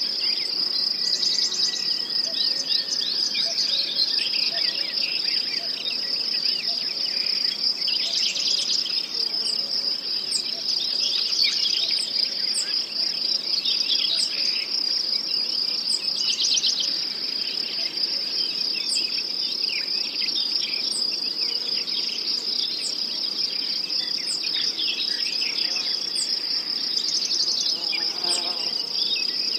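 Steady high-pitched chorus of singing insects, with birds chirping here and there.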